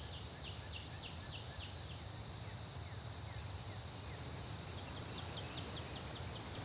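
Faint outdoor nature ambience: a steady high-pitched insect drone with runs of short falling chirps, over a low rumble.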